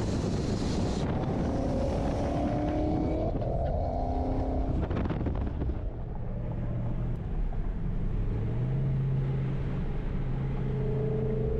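Dodge Charger Scat Pack's 6.4-litre HEMI V8 running on the move, its note climbing and dropping a few times in the first five seconds, then settling into a steady low drone.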